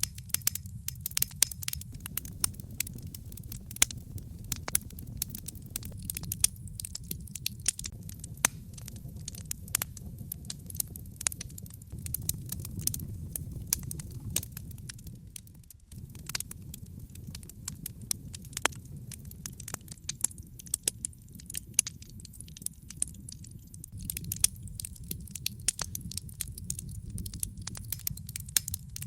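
Wood fire in a fireplace crackling: burning logs give frequent sharp pops and snaps over a steady low rumble of flames. The rumble briefly dips and then resumes about sixteen seconds in.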